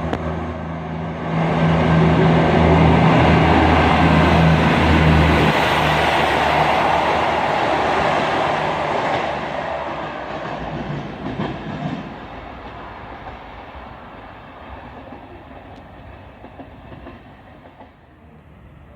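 Diesel passenger train passing: a steady engine drone with wheel-on-rail rumble swells about a second and a half in, then fades away through the second half, with a few clicks of wheels over rail joints as it goes.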